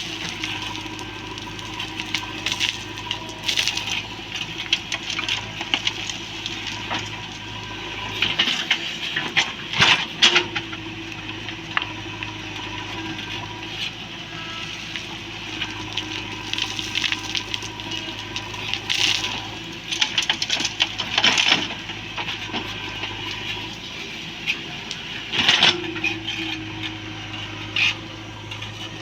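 Backhoe loader's diesel engine running steadily, with irregular bursts of clattering and scraping that peak several times, loudest about a third of the way in and again near the end.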